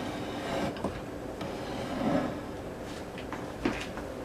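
Soft rubbing and handling noise with a few light clicks and knocks near the end; the fan is not running.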